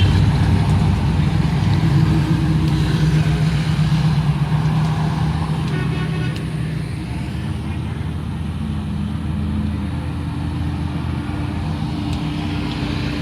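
A vehicle engine running with a steady low rumble, easing off slightly about halfway through.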